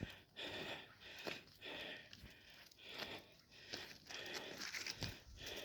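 A hiker climbing a steep, rocky slope: faint, uneven puffs of hard breathing and steps on rock and grit, about two a second.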